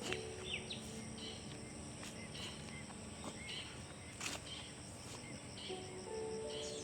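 Outdoor ambience of a steady, high insect drone with many short bird chirps scattered through it.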